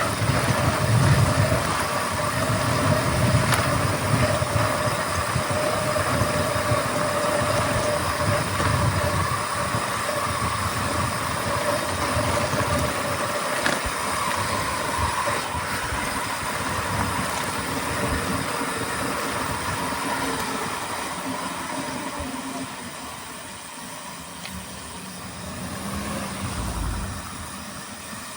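Riding noise from a mountain bike: tyres rolling over the track, with wind gusting and rumbling on the camera microphone. It gets quieter for the last several seconds.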